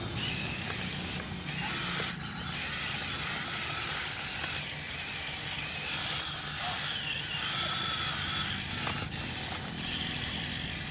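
Electric motor and gears of a Huina 1573 remote-control dump truck whirring steadily, the pitch of the whine shifting up and down as it runs.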